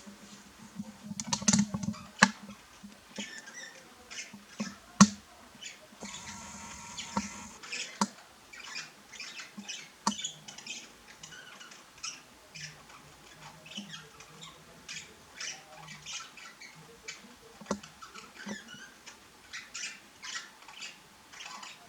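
Budgerigars chattering: a steady run of short high chirps and squeaks, with a few sharp clicks, the loudest in the first five seconds.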